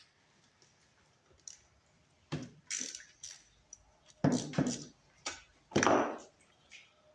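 Hands working with tools and metal parts on a small engine: a string of short clicks, knocks and clatters, the loudest around four and six seconds in.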